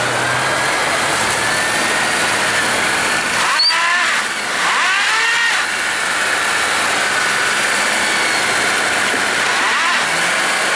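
Honda Civic engine revved hard while a drive wheel spins without grip, the car stuck on a curb. A steady whine runs throughout, with quick rises and falls in pitch about three and a half seconds in, again around five seconds, and near the end.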